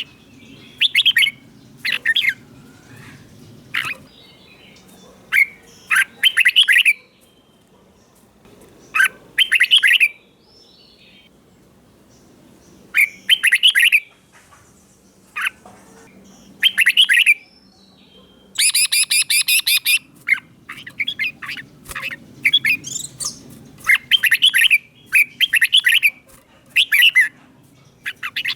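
Red-whiskered bulbul singing: short, bright whistled phrases repeated every second or few, with one longer, harsher phrase about two-thirds of the way through.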